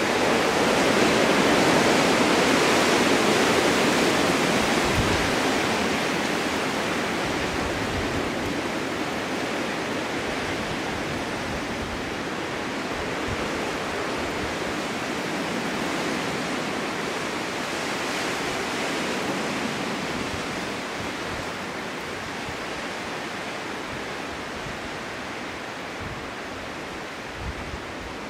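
Snowstorm wind blowing steadily, a continuous rush that swells in the first few seconds and then slowly eases.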